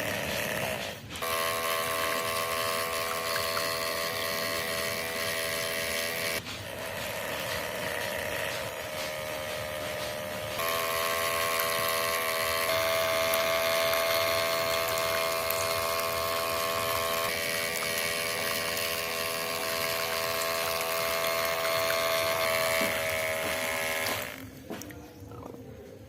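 Small electric DC motor of a homemade miniature tractor whining at a steady pitch, in several stretches separated by brief cuts, and fading out near the end.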